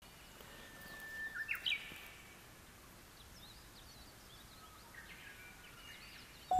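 Wild songbirds singing faintly over a quiet outdoor hush. One louder phrase near the start is a long steady whistle followed by quick notes rising higher, with scattered small chirps after it.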